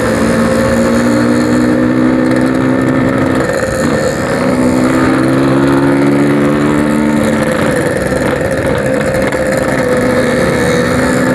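Yamaha RX-King 135cc single-cylinder two-stroke motorcycle running on the move through a packing-power aftermarket exhaust, at a steady pitch. The tone breaks off about three and a half seconds in and comes back a second later at a slightly different pitch.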